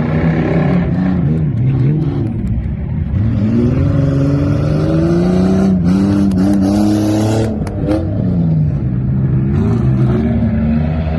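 Truck engine revving hard, its pitch climbing and dropping again and again as the throttle is worked. About six seconds in, a burst of hiss and clatter lasts for over a second.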